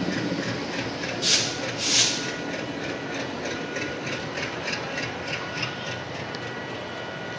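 ALCO diesel locomotive engine running steadily, with two short hisses of air about a second in and two seconds in.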